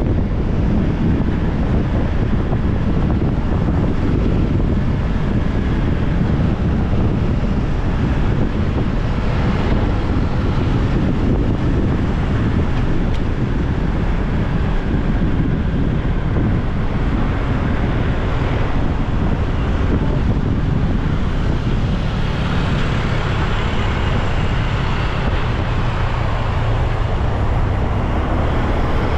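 Wind buffeting the microphone on a moving motorbike, over the steady noise of the bike and the road traffic around it.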